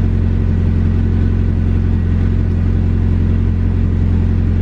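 Nissan 240SX (S13) turbocharged SR20DET engine idling steadily while it warms up, heard from inside the cabin.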